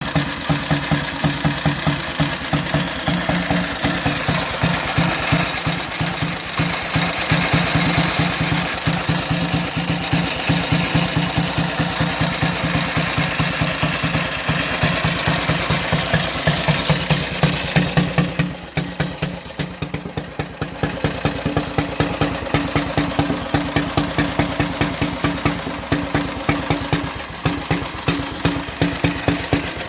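1932 Panther Red Wing 250 cc single-cylinder engine idling with an even, steady beat. About two-thirds of the way through, the beat slows and goes quieter for a couple of seconds, then picks back up.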